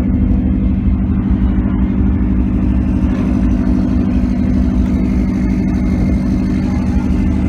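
A car engine running steadily at idle, a low, even rumble that neither rises nor falls.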